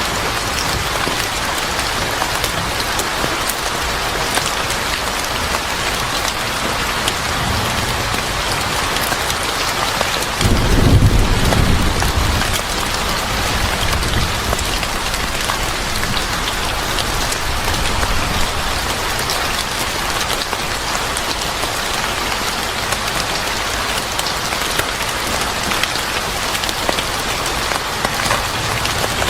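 Steady heavy rain pattering on surfaces, with a low roll of thunder rumbling for two or three seconds about ten seconds in.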